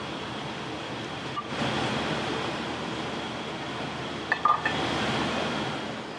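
Restaurant kitchen background noise with a steady high hum, and a few quick clinks of dishes a little past four seconds in.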